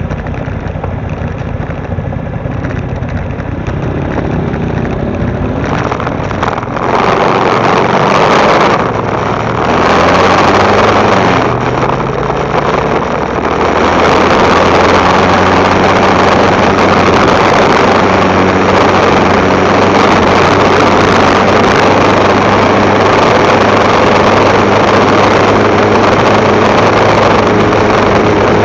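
Motorbike engine running low at first, then revving up and pulling away about a quarter of the way in, its pitch rising over several seconds. It then settles into a steady loud drone while riding along.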